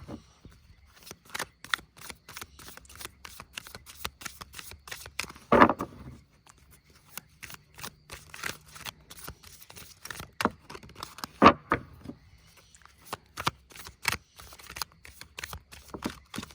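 Tarot cards being shuffled by hand: a long run of quick, crisp card flicks, a few of them much louder.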